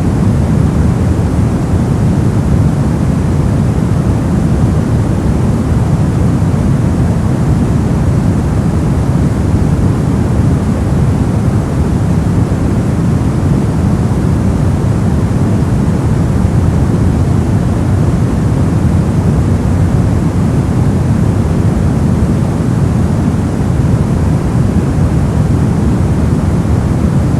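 Continuous white noise for sleep masking: an even, unchanging hiss, heaviest in the low range and thinner in the highs.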